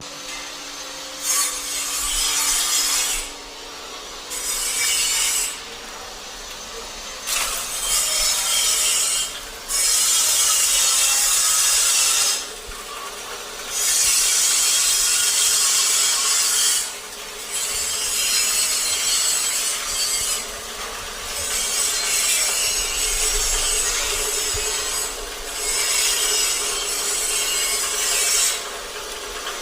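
Dry-leaf grinding machine running with a steady hum. About eight loud bursts of noise, each two to three seconds long, come as loads of dry leaves are fed in and shredded.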